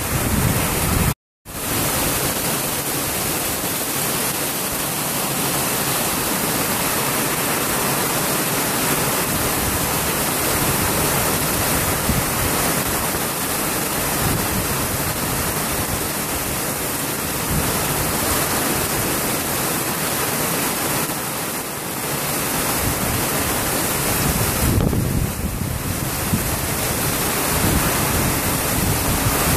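Heavy rain pouring down in a steady, dense hiss, with a brief moment of silence about a second in.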